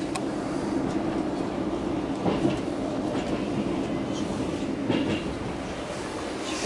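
Double-deck Stadler KISS electric train running at speed, heard from inside the passenger saloon: a steady low rumbling hum with a few knocks from the wheels over the track, about two seconds in and again near five seconds.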